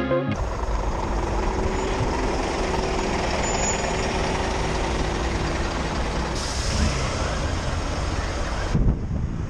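Road riding noise from a motorcycle-mounted camera: a steady engine hum under a loud hiss of wind and traffic. Near the end it cuts suddenly to gustier wind noise.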